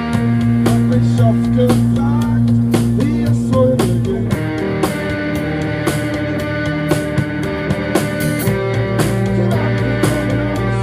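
Live rock band playing an instrumental passage: guitar holding long sustained notes over steady drums.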